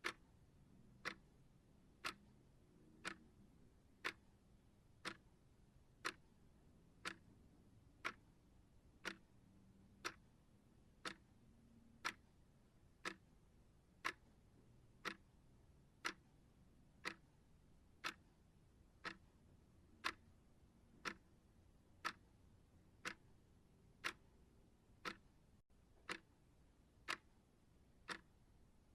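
Steady clock-style ticking, one sharp tick each second, with near silence between ticks.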